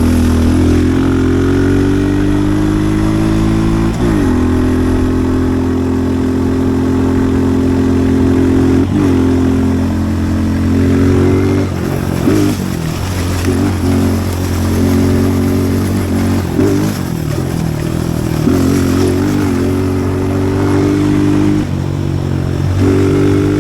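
Pit bike engine running hard on a dirt track, holding steady revs for stretches with sudden drops in pitch about four and nine seconds in. Through the middle the revs rise and fall unevenly as the throttle is worked.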